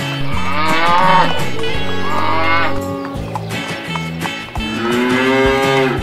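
A cow-moo sound effect: a long moo, then a second moo starting past the middle, over light background music with a repeating bass line.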